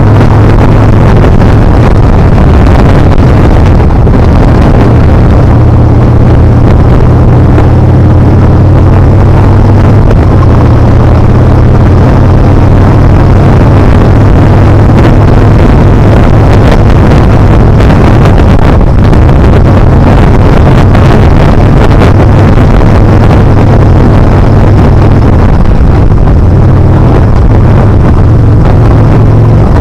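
Yamaha Bolt's air-cooled V-twin engine running at a steady pace while the motorcycle is ridden, with wind rushing over the microphone. The sound is loud and constant throughout.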